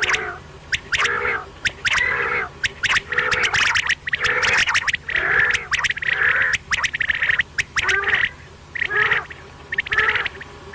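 Quail calling over and over: short, harsh, raspy notes in quick succession, each mixed with sharp clicking sounds, with brief pauses between runs.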